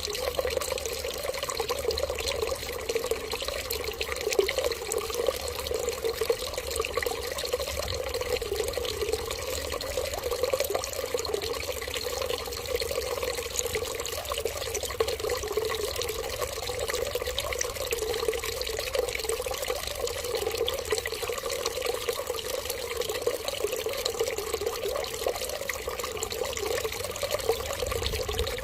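Running water, a steady unbroken stream like a tap left running, with fine splashing and no change in flow.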